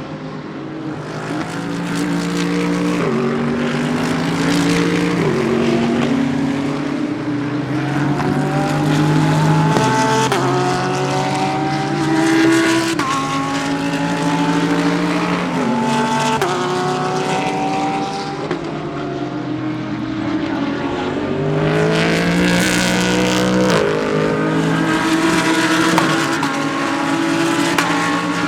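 GT3 race cars passing one after another on full throttle, engines climbing in pitch and dropping back in steps as they upshift, with several cars overlapping.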